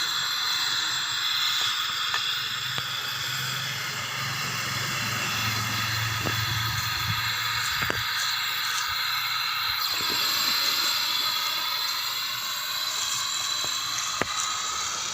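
Aluminium welding on a cracked engine casing: a steady hiss with faint wavering tones and a few small ticks.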